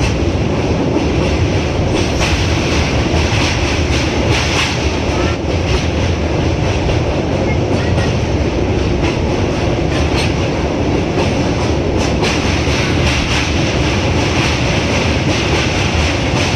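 Maurya Express passenger train running, a steady rumble with wheels clicking now and then over rail joints.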